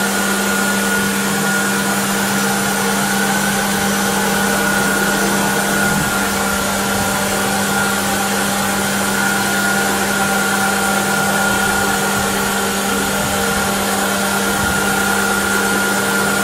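Subaru Baja's flat-four engine idling with the air-conditioning compressor engaged while the A/C system is being recharged with R134a: a steady hum with a thin, higher whine above it.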